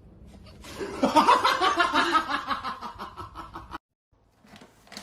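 A person laughing hard in a run of quick breathy pulses, cut off abruptly near the end.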